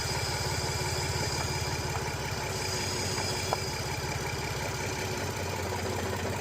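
Volkswagen Passat R36's 3.6-litre VR6 engine idling with a misfire, with a small click about halfway through.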